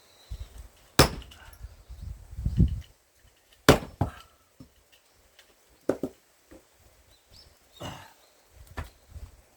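Large forged axe striking tough, knotty pine firewood: several sharp chopping blows a few seconds apart, with duller knocks of wood between them.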